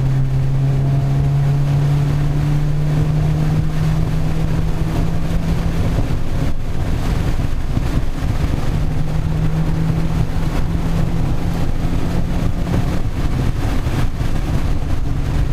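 Subaru Impreza WRX STi's turbocharged flat-four engine heard from inside the cabin, running at steady revs at speed with road and wind noise underneath. The engine note drops away about six seconds in and picks up again a couple of seconds later.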